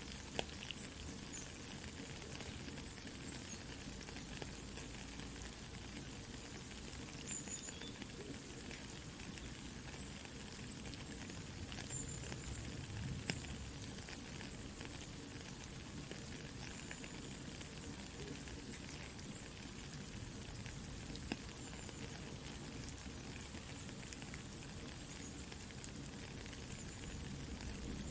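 Soft rain pattering steadily, mixed with the small, scattered crackles of a campfire.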